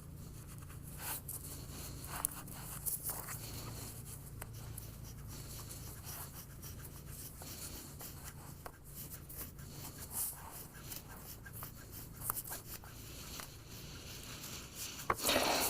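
Faint rustling and small clicks of fabric being handled as the strings of a beekeeping veil are tied, over a low steady hum, with a louder rustle near the end.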